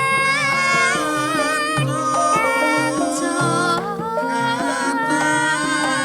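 Javanese gamelan music: steady metallophone notes under a singer's wavering vocal line.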